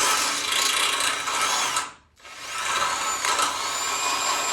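Electric drill boring out steel bolt holes to take a 1/2-inch bolt. It runs in two long bursts with a high motor whine, stopping briefly about two seconds in.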